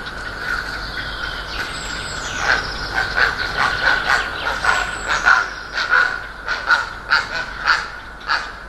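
Birds calling with a rapid series of short, harsh calls, about two or three a second, starting about two seconds in and getting stronger. A steady thin high tone runs underneath.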